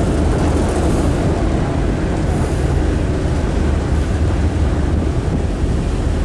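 Steady low rumble of a car ferry under way, its engines and the water along the hull, with wind noise on the microphone.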